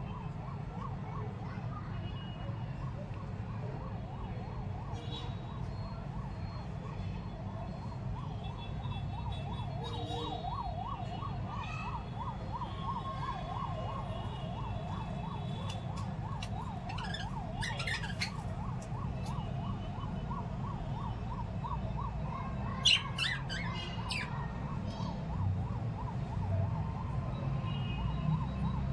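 Caged lovebirds and budgies give short clusters of sharp, high chirps, twice in the second half, the louder cluster just past the middle. Under them a steady low hum and a continuous tone that wavers rapidly up and down run on.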